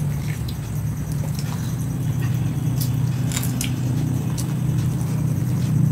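A person chewing biryani eaten by hand, with scattered wet smacks and clicks of the mouth, over a steady low hum.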